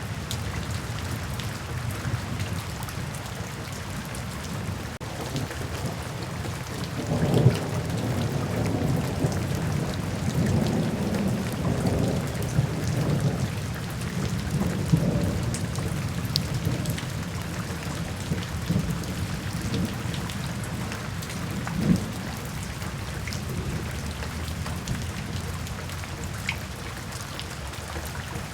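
Steady rain falling. A few seconds in, a roll of thunder begins with a sharp crack, rumbles on for several seconds and fades. A shorter thunder crack comes later.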